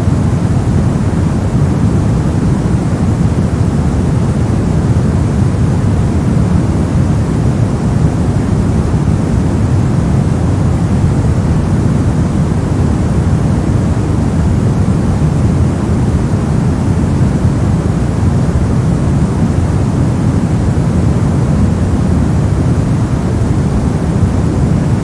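Steady generated white noise played as a sleep and focus background. It is an even, unchanging rush, deepest and strongest in the low range, with no tones or breaks.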